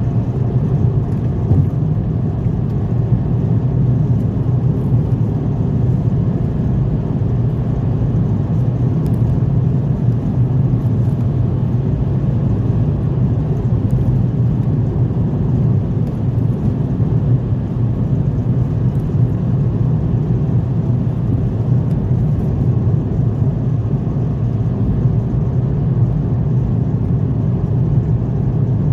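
A car driving at a steady pace: a continuous low rumble of engine and tyres on the road, with no change in speed.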